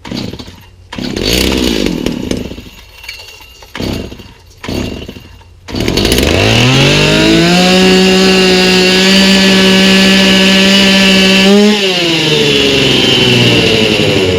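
Stihl MS290 two-stroke chainsaw being started on a new aftermarket carburetor with its mixture screws at the factory settings. A few short bursts come first, then about six seconds in the engine catches and revs up to a steady high speed. It holds there for about six seconds, then drops back to a lower running speed near the end.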